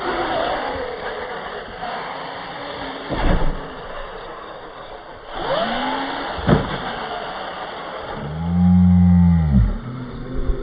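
Radio-controlled Losi LMT mega trucks' electric motors whining as they rev up and down, with a few sharp knocks of hits and landings. The loudest is one long low rev that rises and falls about eight seconds in.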